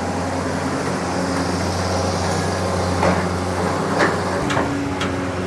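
Excavator's diesel engine running steadily under load, with several sharp clanks from the working bucket and boom in the second half.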